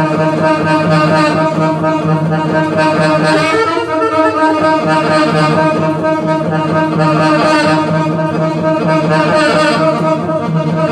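Live jazz band playing an instrumental passage, with a horn carrying the melody over sustained chords.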